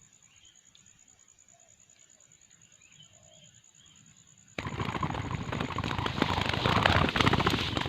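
A steady high insect whine and a few faint bird calls. Then, about four and a half seconds in, a sudden loud burst of rapid wing flapping and rustling, the sound of a caught spotted dove struggling.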